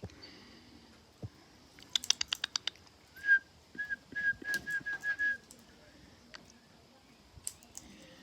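About seven short whistled notes on one steady pitch over about two seconds. Just before them comes a quick run of sharp clicks.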